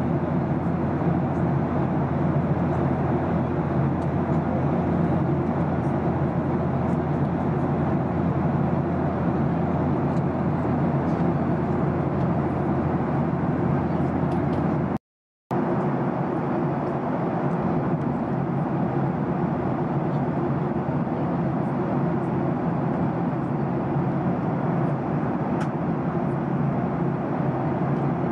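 Cabin noise of a Skymark Boeing 737-800 jet airliner in flight: the steady rush of the engines and airflow heard from a window seat, broken by a half-second gap about halfway through.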